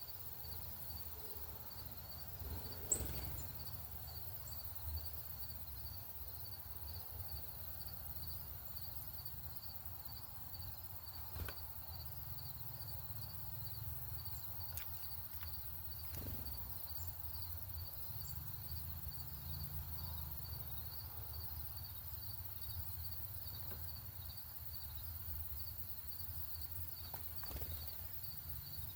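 Outdoor ambience with an insect chirping in a steady high rhythm, about one and a half chirps a second, over a low rumble. A few sharp clicks break in, the loudest about three seconds in.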